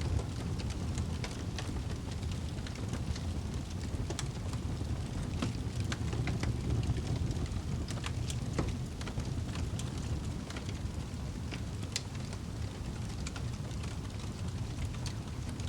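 A fire burning in a fireplace: a steady low rumble of flame with many sharp, irregular crackles and pops.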